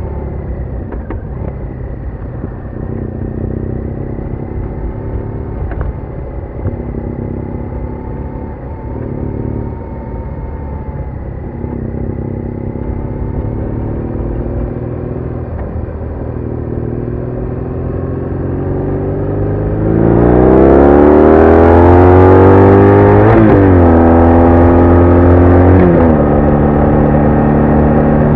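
BMW R1200R boxer-twin engine running at a steady road speed, then opening up about two-thirds of the way through. It grows louder and its pitch climbs steeply, drops sharply at two upshifts, and settles into a higher steady note near the end.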